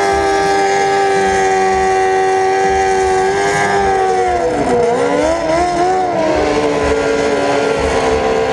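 Motorcycle engine running at a steady cruising speed while riding. About halfway through, its pitch dips as the revs drop, wavers briefly and then holds steady again.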